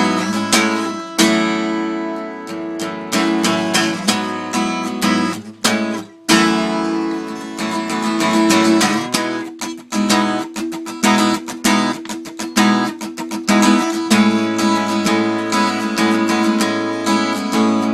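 Acoustic guitar strumming chords in a rhythmic instrumental break, with a brief stop about six seconds in before the strumming resumes.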